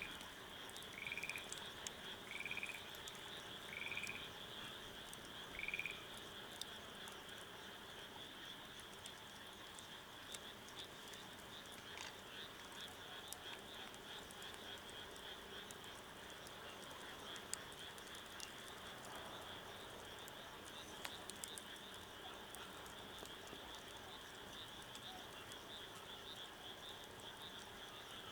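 Frogs calling at night: one frog gives a short call about every second and a half, stopping about six seconds in, over a steady high trilling chorus. A few faint scattered ticks are heard.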